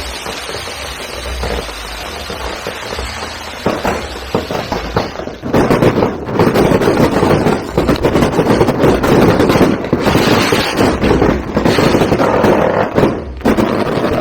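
Firecrackers going off in a dense, rapid crackle, much louder from about five seconds in.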